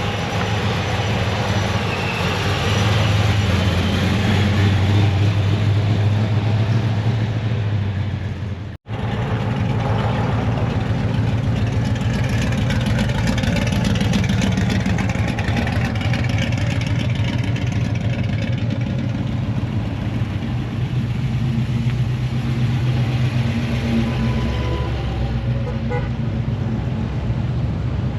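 Car engines running, with a steady low rumble under a wash of outdoor noise. The sound drops out briefly about nine seconds in, then carries on.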